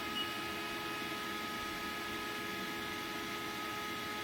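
Steady electrical hum and hiss with several constant high tones from a powered-up CNC vertical machining center standing idle, with no axis or spindle moving.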